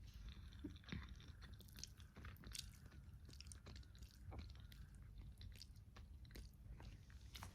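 Faint chewing of a mouthful of food close to the microphone, with scattered small wet clicks of the mouth.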